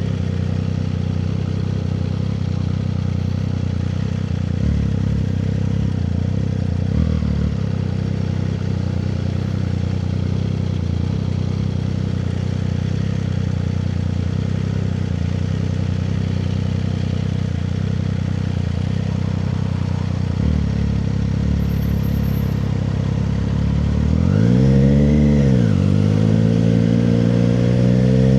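Triumph Street Triple 765 RS's inline three-cylinder engine running steadily at low revs, then a quick blip of the throttle up and back down near the end, followed by the revs climbing steadily as the bike pulls away.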